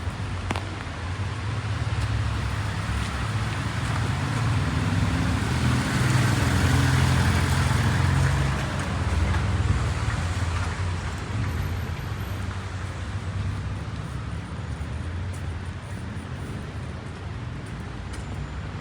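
A car passing on a wet street: its tyre hiss and engine swell to a peak about seven seconds in, then slowly fade.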